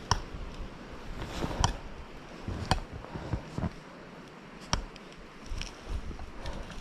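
Sharp wooden knocks, one roughly every second, from pieces of birch wood being struck or handled; no chainsaw running.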